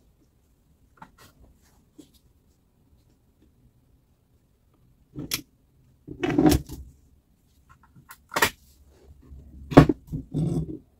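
A series of sharp knocks and clunks, some followed by a short scrape, coming in the second half about a second apart.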